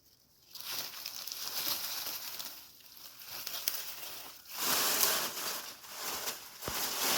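Rustling and crinkling in uneven swells, loudest a little past halfway through.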